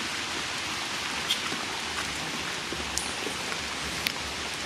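Steady rain falling on wet, muddy ground and puddles, with a few brief sharp ticks of drops.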